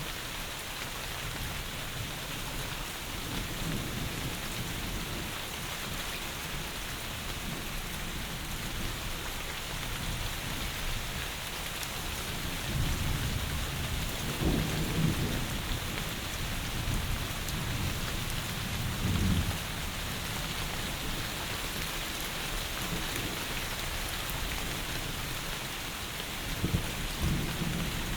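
Heavy rain falling in a steady hiss, with distant thunder rolling in low rumbles several times: a few seconds in, twice past the middle, and again near the end.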